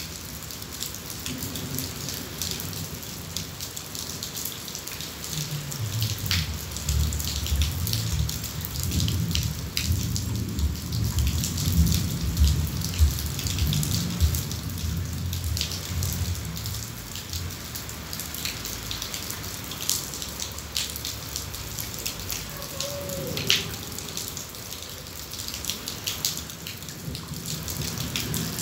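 Heavy rain falling: a steady hiss with many sharp drops and drips striking close hard surfaces. A low rumble swells and fades through the middle.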